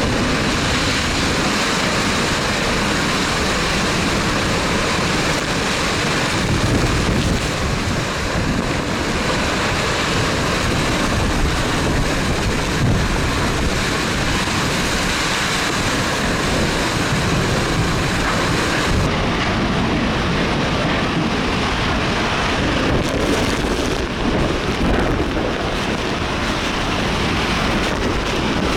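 Strong hurricane wind and heavy rain, a steady loud rush of noise. The hiss turns duller about two-thirds of the way through.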